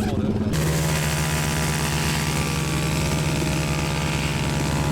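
Dirt bike engine running at a steady, unchanging pitch, without revving. About half a second in, the sound switches abruptly to this even engine note.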